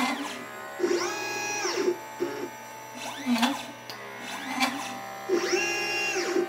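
LitePlacer pick-and-place machine's stepper motors whining as the head travels while placing surface-mount capacitors and resistors. Each move's whine rises in pitch, holds, then falls as it speeds up, cruises and slows, with long moves about a second in and again near five and a half seconds, and shorter chirps between.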